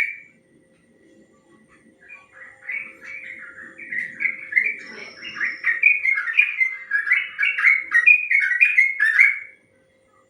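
Sooty-headed bulbul (trucuk) singing a long, rapid run of chattering notes, starting about two seconds in and stopping shortly before the end.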